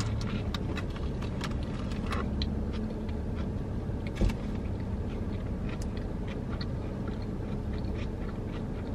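Close-up mouth sounds of biting into and chewing a Cajun chicken sub sandwich: many small wet clicks and soft crunches, with one sharper click about four seconds in, over a steady low hum.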